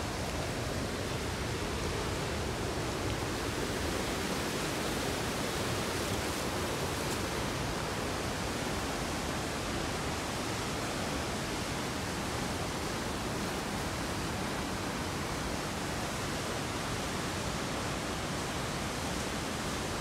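Waterfall pouring down a rock cliff, a steady, unbroken rush of falling water.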